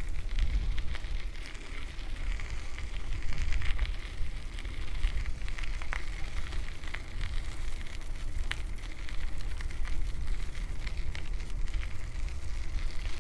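Bicycle riding along: wind rumbling on the microphone and crackling tyre noise, with scattered sharp clicks.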